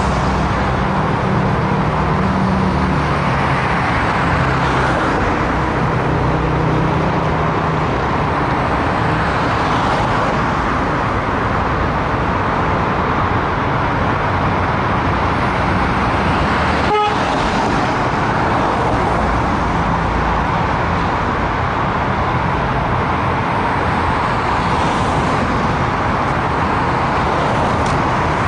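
Dense urban expressway traffic: a steady wash of tyre and engine noise from cars and heavier vehicles, with a low engine hum strongest in the first several seconds. One short, sharp beep cuts through about seventeen seconds in.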